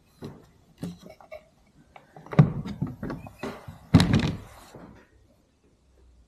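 Wooden knocks and thuds of a bird hide's door being opened and shut, several in a row, the loudest two about two and a half and four seconds in.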